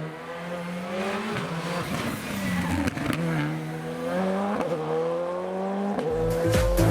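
Rally car engine accelerating hard through the gears: the pitch climbs, then drops at each upshift about every second and a half, with a short crack at the shifts. Music with a heavy beat comes in near the end.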